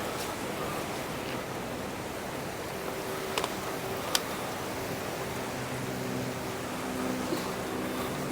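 Steady outdoor seaside ambience: an even wash of surf and wind noise, with two sharp clicks a little under a second apart near the middle.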